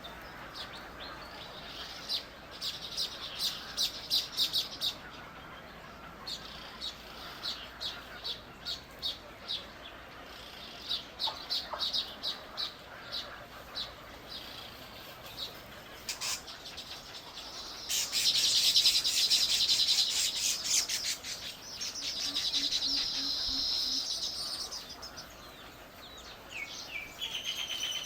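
Small birds chirping: runs of short high chirps, about two a second, with a dense rapid trill about two-thirds of the way through and a buzzier run after it.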